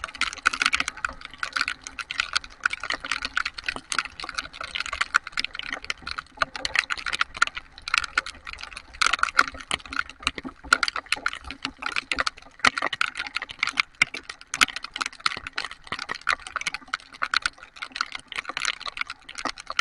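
Heavy rain, with dense irregular drops tapping and clicking on a hard surface close to the microphone.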